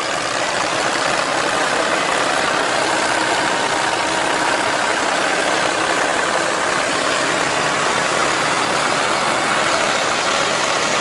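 A vehicle engine running steadily, an even noise with no change in speed.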